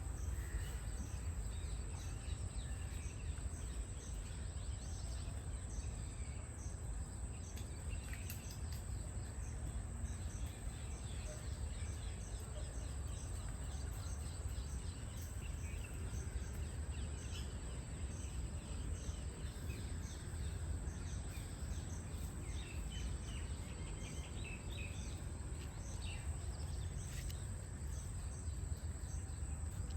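Forest ambience: a steady low wind rumble, a continuous high insect drone, and scattered short bird chirps.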